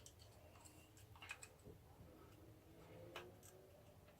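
Faint, scattered small metal clicks, a handful in all, from a tool working the E-clip off a motorcycle's gear shift shaft.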